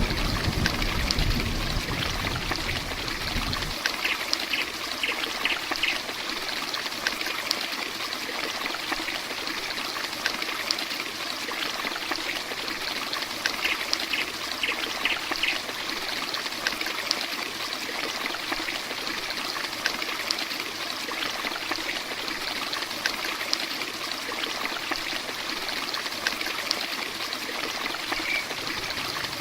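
Heavy rain falling steadily, a dense even hiss. A low rumble underneath it in the first few seconds stops abruptly.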